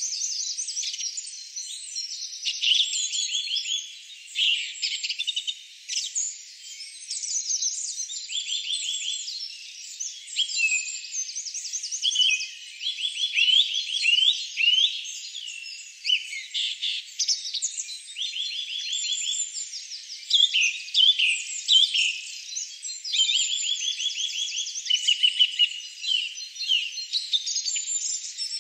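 Dense chorus of several songbirds singing at once: overlapping trills and runs of quick repeated high chirps, with nothing low-pitched under them.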